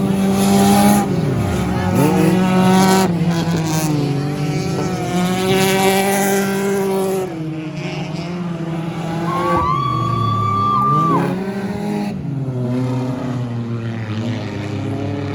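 Several stock car engines running in a race, their pitches rising and falling as the cars accelerate and pass. Past the middle comes a high, steady squeal lasting about a second and a half.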